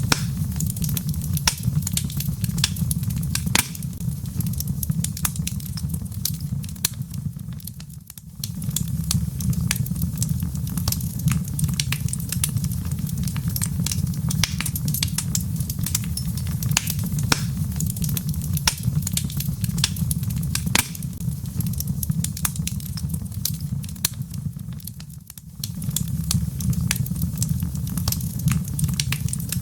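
Wood fire burning in a fireplace: irregular sharp crackles and pops from the burning logs over a low, steady rumble. Twice the sound briefly fades down and then comes back abruptly, about a quarter of the way in and again near the end.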